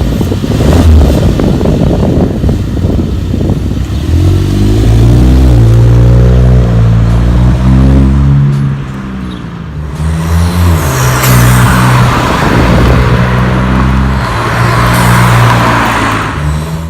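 MK7 Golf 1.8 TSI turbocharged four-cylinder being revved through a 3-inch straight-pipe Magnaflow cat-back exhaust with no resonator or muffler. The engine note rises and falls again and again, with a hiss joining about halfway through, and it cuts off suddenly at the end.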